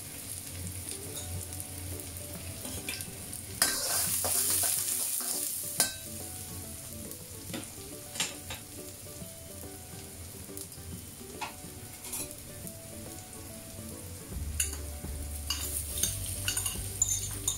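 Minced garlic, shallots, ginger and scallion whites sizzling in hot oil in a wok, with a louder burst of hissing about four seconds in and a few sharp clicks of stirring. Near the end crumbled vegetarian mince goes into the wok and the frying grows louder.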